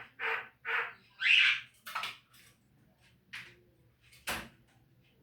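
Javan myna (jalak kebo) calling: a string of short, harsh calls and squawks, the loudest a longer call about a second in and a sharp single call near the end.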